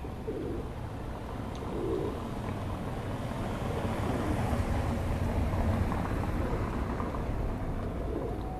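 Low rumble of passing traffic, swelling toward the middle and easing off near the end.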